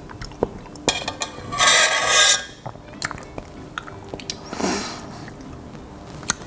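A man chewing a mouthful of canned spaghetti, with light clicks of a fork against a metal saucepan. About two seconds in comes a loud breathy sound of disgust, and near five seconds a shorter groan.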